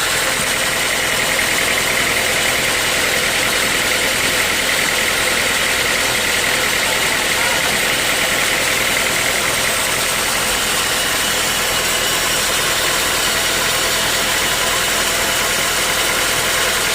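Sawmill machinery running steadily: an even, continuous mechanical noise.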